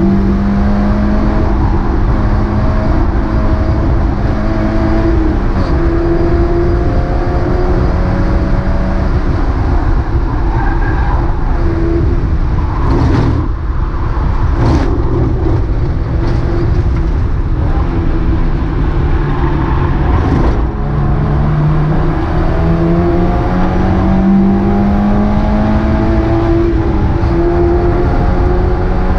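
Mazda MX-5 race car's four-cylinder engine running hard under racing load, its pitch climbing and dropping repeatedly through gear changes and braking. A few sharp cracks stand out in the middle, where the engine note briefly falls away.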